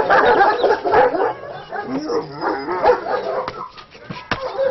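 Several dogs barking and yelping over one another, densest in the first half and thinning out about halfway through, with a couple of sharp knocks near the end.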